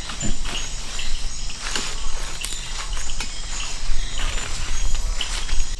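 Night chorus of rainforest insects such as crickets, a steady high-pitched trilling, with scattered footsteps and rustling of people walking through the undergrowth.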